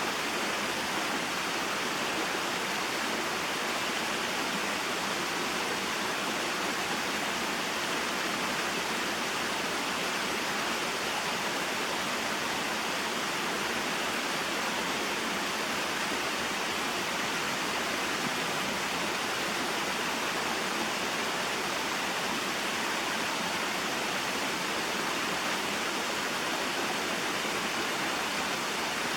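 Small waterfall and stream flowing over rocks: a steady, unbroken rush of running water.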